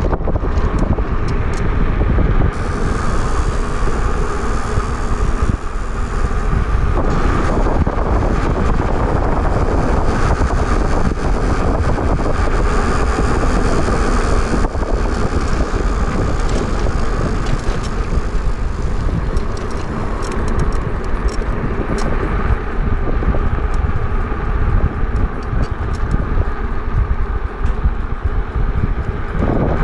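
Steady wind rush on the microphone and road noise from an e-bike riding along a road.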